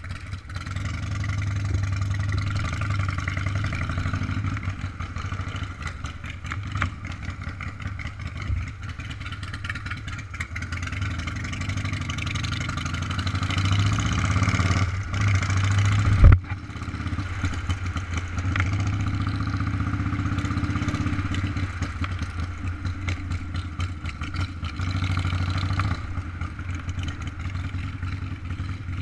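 Motorcycle engine running under way, with wind and road noise on the microphone. It builds in loudness for a few seconds past the middle, then gives a sharp thump and drops suddenly before running steadily again, as at a gear change.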